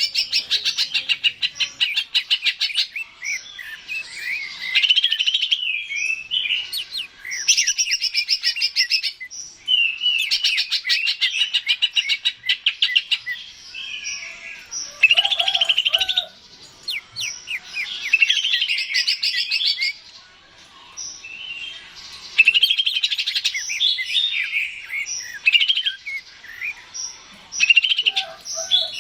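Cucak ijo (green leafbird) singing: bursts of rapid chattering trills and varied whistled phrases, with short pauses, the longest about two-thirds of the way through.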